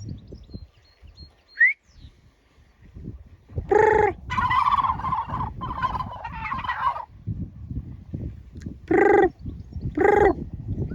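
Male turkeys gobbling: a few short, loud calls and a longer rapid warbling gobble in the middle, with a brief rising chirp near the start.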